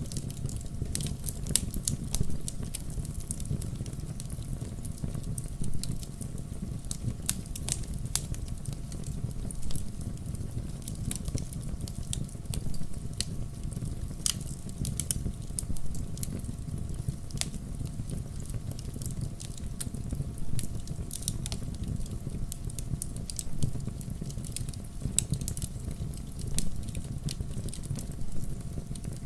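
Wood campfire crackling: frequent irregular sharp pops and snaps over a steady low rumble of the burning fire.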